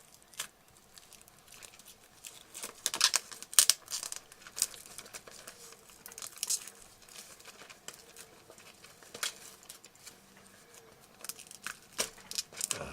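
Plastic wrapping on a sealed DVD case being crinkled and torn by hand: irregular sharp crackles, loudest about three to four seconds in.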